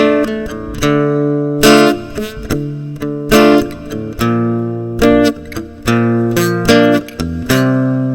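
Acoustic guitar strumming chords in a steady rhythm, a strong stroke about every second, as an instrumental break between sung verses.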